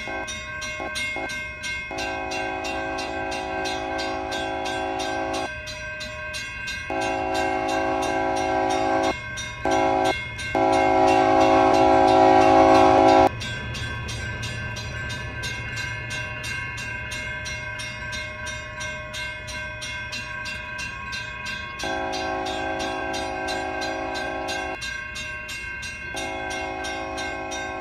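Railroad crossing bell dinging rapidly and steadily while a passing train's horn sounds the grade-crossing signal: two long blasts, a short one and a long, loudest one, then two more long blasts later on. A low rumble of the train runs underneath.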